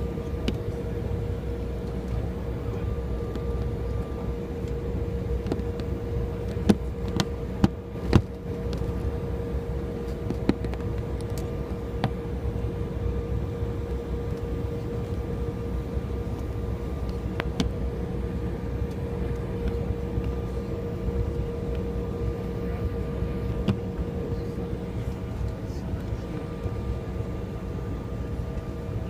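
Steady cabin drone of an Embraer 175 airliner: a low rumble with a steady hum over it, broken by a few sharp clicks several seconds apart.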